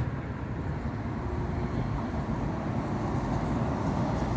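Road traffic going by: a steady low rumble of engines and tyres.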